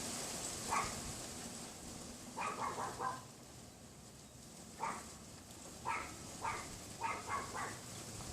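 Pomeranian yapping: short, high yaps, some single and some in quick runs of three or four, over steady wind noise.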